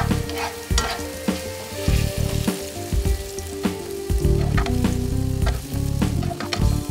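Sautéed mushrooms sizzling in a hot skillet, with a spatula scraping and clicking against the pan as they are stirred and scooped out, the mushrooms softened and done.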